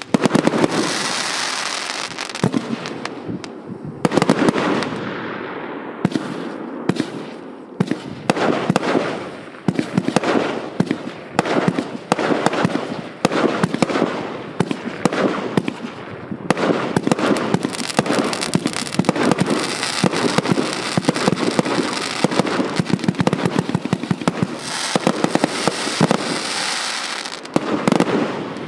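94-shot fireworks cake (a battery of 0.8-, 1- and 1.2-inch tubes) firing shot after shot in a rapid, nearly continuous string of launches and aerial bursts.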